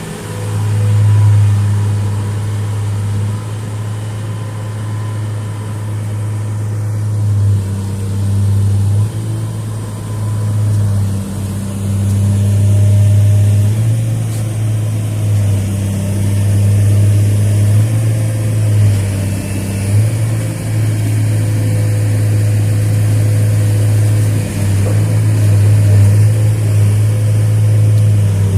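Diesel engine of a 2003 Atlas 1805 wheeled excavator running steadily, its low note dipping and rising slightly now and then.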